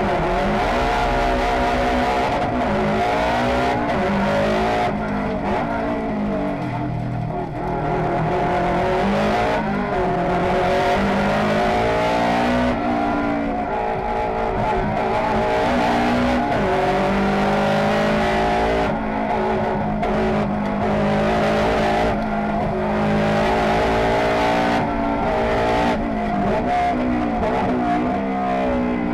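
On-board sound of a turbocharged four-cylinder rally car driven hard up a hill climb, the engine revving high and its pitch repeatedly rising and dropping back through gear changes.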